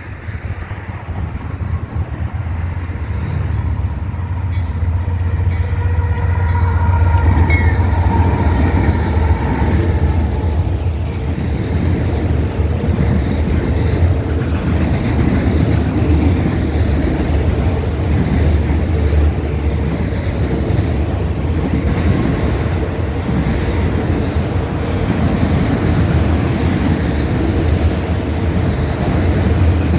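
Diesel freight locomotive rumbling as it approaches and passes, growing louder over the first several seconds. Its train of empty autorack cars then rolls by steadily with wheel clatter on the rail joints.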